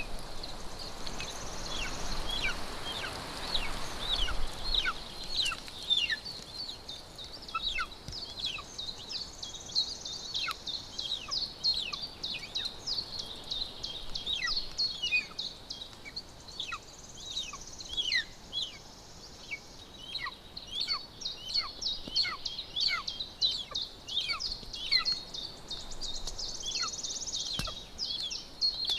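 Golden eagle chick's begging calls: a continuous rapid series of short, high notes, each falling sharply in pitch, several a second, over a steady hiss.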